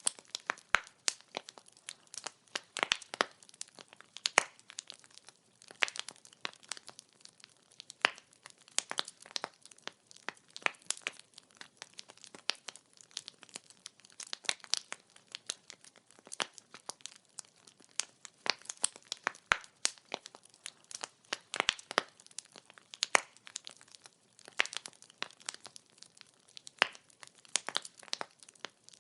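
Wood fire crackling: burning firewood gives off many irregular snaps and pops over a faint hiss, with a few louder pops now and then.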